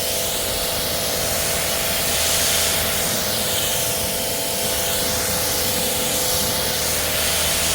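Pressure washer rinsing a truck: a steady hiss of the water jet, changing slowly as the spray sweeps across the panels, over the steady hum of the washer's pump motor.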